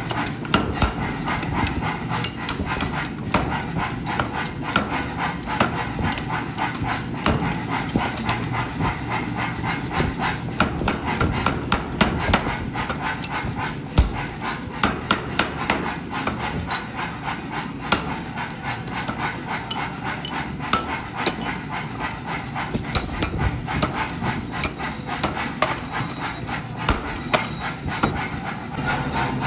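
Forging hammer strikes on steel: many quick, irregular sharp blows over continuous workshop noise, with one heavier knock about halfway through.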